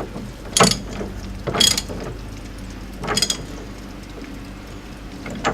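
Wrench ratcheting as a new electric water heater element is tightened into the tank: three short bursts of metallic clicking, a second or so apart, over a faint steady hum.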